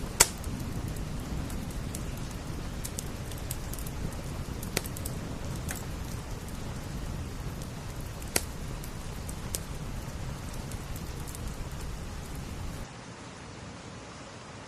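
Steady rain pattering on window glass, with a wood fire crackling and a few sharp pops, the loudest just after the start. About 13 seconds in, the low rumble falls away and the sound grows quieter.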